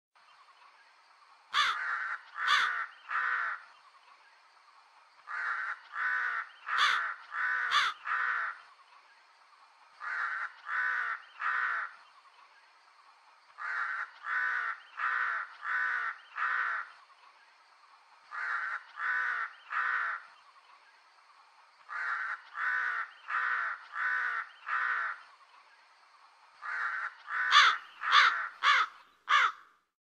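Crow cawing in bouts of three to five caws, a new bout every few seconds, with the loudest bout near the end.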